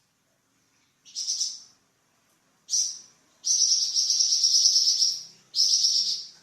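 Flamboyan songbird giving harsh, high buzzing calls in separate bursts: a short one about a second in, another near three seconds, then a long drawn-out buzz of nearly two seconds, and another short burst near the end.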